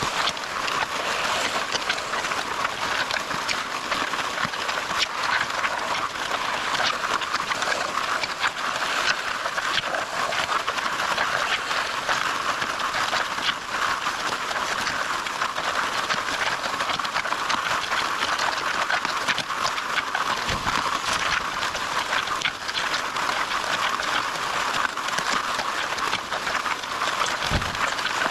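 Steady machine noise with continuous rattling and clicking.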